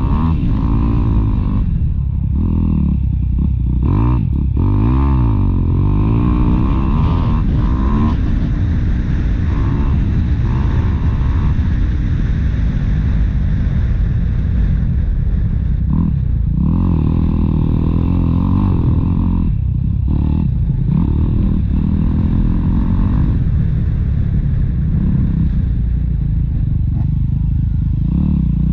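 Motocross bike engine running hard and continuously, its pitch rising and falling again and again as the throttle is opened and closed.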